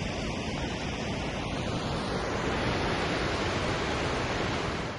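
Waterfall: water falling and rushing in a steady, even noise.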